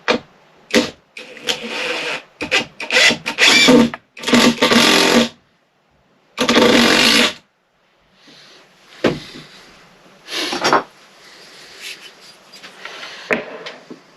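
Rasping, rubbing strokes on wood, in irregular bursts up to about a second long, a few of them cut off abruptly.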